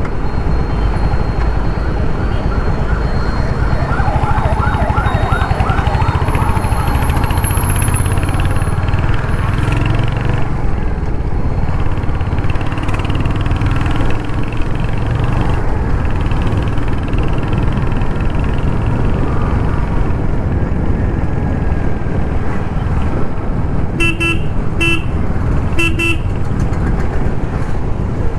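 Royal Enfield Hunter 350's 350cc single-cylinder engine running steadily while riding in city traffic. A wavering tone passes a few seconds in, and a vehicle horn gives four short toots near the end.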